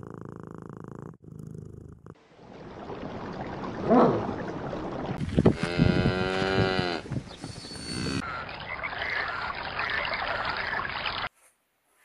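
Cows mooing: a short moo about four seconds in and a long moo around six seconds, over steady background noise that cuts off near the end. A cat purring briefly at the start.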